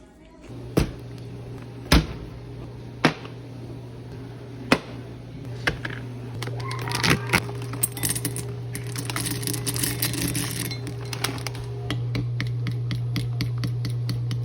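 A steady low hum from a running kitchen appliance, with sharp clinks and knocks of utensils and glassware about four times in the first five seconds and a longer stretch of clattering in the middle.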